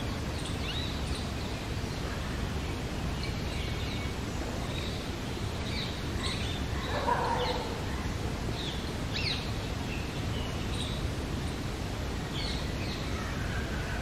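Small birds chirping and calling in short, scattered notes over a steady low background rumble, with a louder, lower call about seven seconds in.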